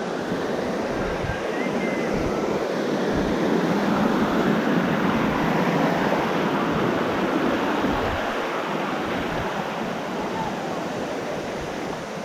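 The steady rush of water from a very tall waterfall, swelling a little in the middle, with wind buffeting the microphone.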